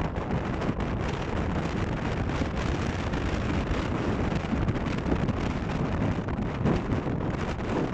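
Strong wind buffeting the microphone, a steady rumbling roar.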